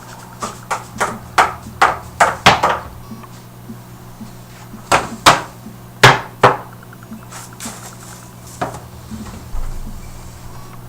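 A string of sharp, irregular knocks and clatters, several in quick succession at the start, another cluster a little past the middle, and a single knock near the end.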